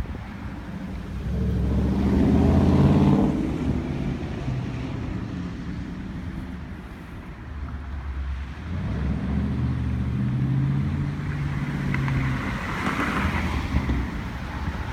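Dodge Charger Daytona's Hemi V8 exhaust, run with the mid muffler deleted, driving by. It swells to its loudest about three seconds in and fades, then comes back loud and steady from about nine seconds on.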